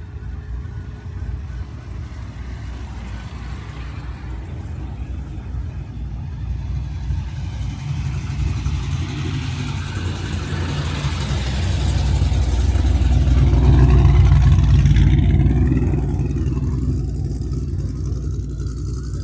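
Car engine rumbling, swelling to its loudest about two-thirds of the way in and then easing off.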